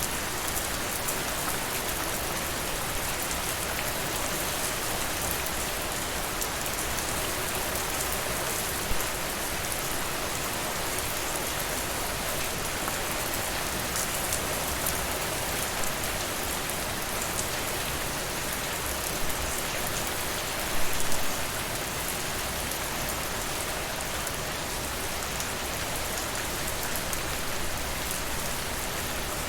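Steady rain falling on a surface, an even hiss of many drops. A few brief sharper sounds rise above it, the loudest cluster about 21 seconds in.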